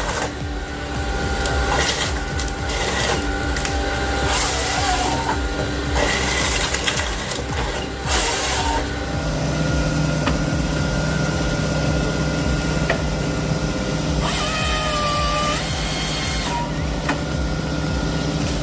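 Heavy forestry machine working: a steady diesel engine drone with hydraulic whine, broken by several short bursts of hissing noise and a brief pitched whine near the end.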